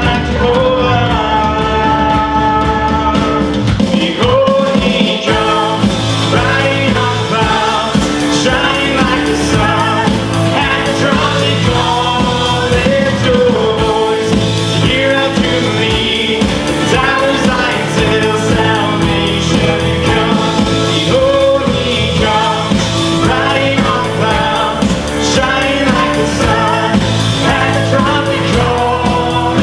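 Worship band playing a song with singing over sustained instruments and a steady beat.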